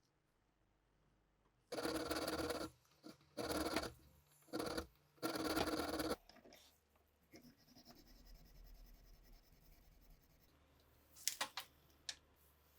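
Four rough scraping strokes made by hand, each lasting about half a second to a second, followed by fainter rubbing and a few light clicks near the end.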